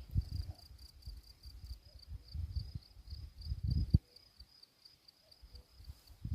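An insect, cricket-like, chirping steadily in a high, fast pulsing trill of about four to five pulses a second. Low rumbling buffeting on the microphone comes and goes over it, loudest just before it cuts off abruptly about four seconds in.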